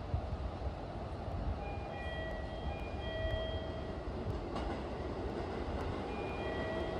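Keisei 3000-series electric train approaching a station platform from a distance: a steady low rumble of wheels on rail. Twice, a short pattern of faint high electronic tones rises above it.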